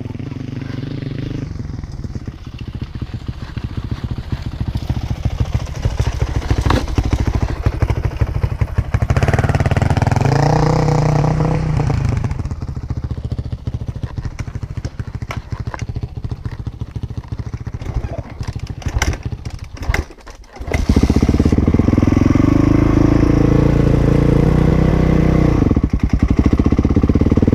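Dirt bike engine running under throttle, its pitch climbing and falling about ten seconds in. The engine sound drops away briefly about twenty seconds in, then runs loud again.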